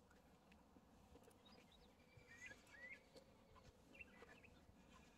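Near silence outdoors, with a few faint, short bird chirps, the clearest two about two and a half and three seconds in.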